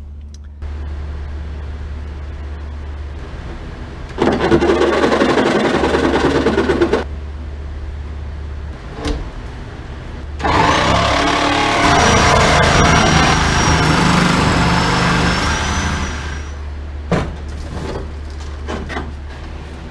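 Power tool cutting the sheet-metal trunk floor of a 1948 Plymouth, run in two bursts of about three and six seconds, the second with a high whine, over a steady low hum, with a few knocks in between.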